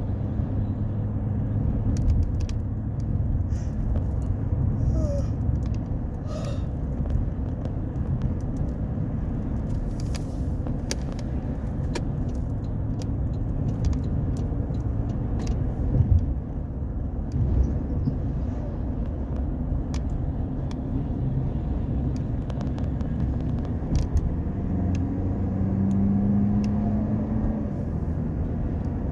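Road vehicle driving in traffic: a steady low engine and road rumble, with a few scattered sharp clicks and knocks.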